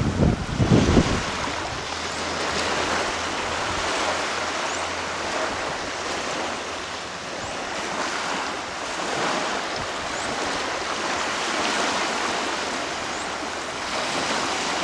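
Sea waves washing, a steady rushing of water, with wind buffeting the microphone in the first second.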